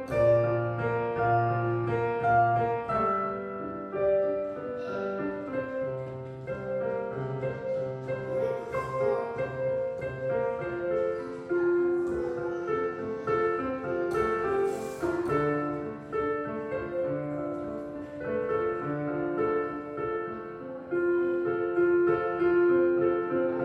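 Street piano being played: a melody over held chords with occasional low bass notes.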